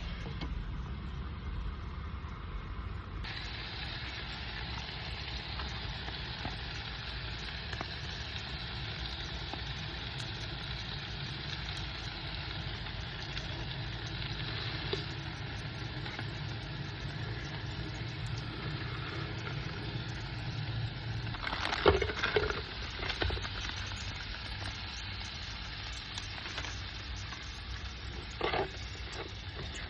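Food sizzling and frying in a pan over a steady low rumble, the hiss growing fuller a few seconds in. A few sharp utensil clinks and clatters come around two-thirds of the way through and again near the end.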